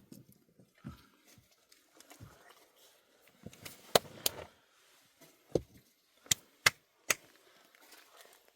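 A handful of sharp, short knocks at uneven intervals, the loudest two close together about four seconds in, with quiet between.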